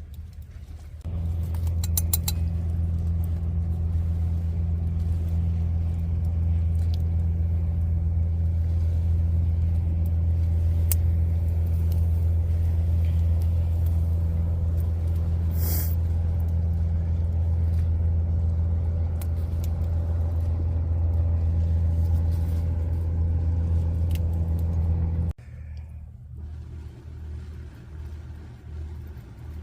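A steady low mechanical hum that starts abruptly about a second in and cuts off suddenly near the end, with a few faint clicks over it.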